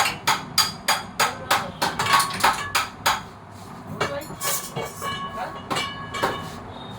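A hammer striking metal in a quick even rhythm, about three blows a second, each blow leaving a short metallic ring. The blows pause briefly a little past the middle, then resume less evenly.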